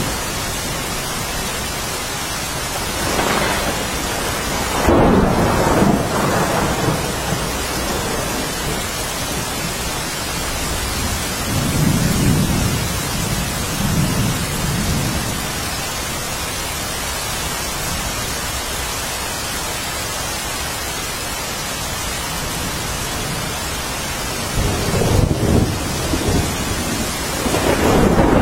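Steady downpour of rain hissing without a break, with rolling thunder swelling up three times: about three seconds in, around twelve seconds, and again near the end.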